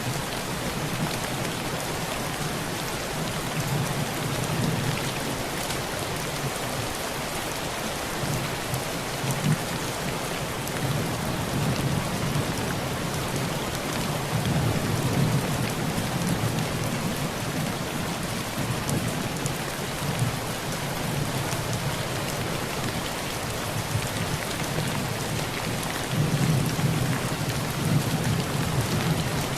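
Heavy rain drumming on a tin roof, a dense steady hiss flecked with single drop hits, while low thunder rolls in and swells several times.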